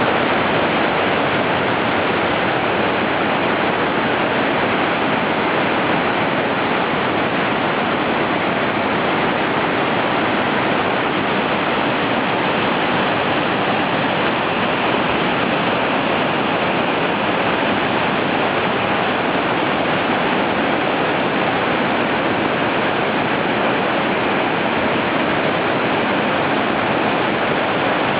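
Fukuroda Falls pouring, a loud, steady rush of falling water that does not change.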